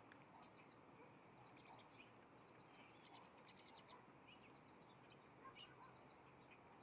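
Faint, frequent short high-pitched bird chirps, scattered throughout, over a low steady hum.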